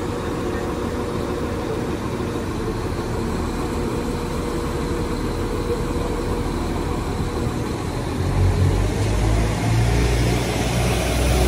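Class 195 diesel multiple unit's engines running steadily as the train departs, the deep engine note growing louder about eight seconds in.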